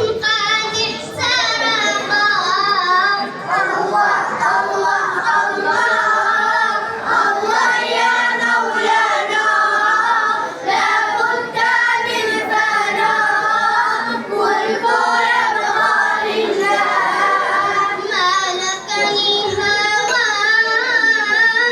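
Children's voices singing a sustained melody, unaccompanied.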